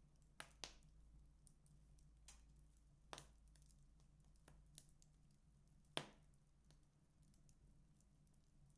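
Wood fire crackling in a fireplace: scattered sharp pops and snaps, about half a dozen, the loudest about six seconds in, over a faint steady low hum.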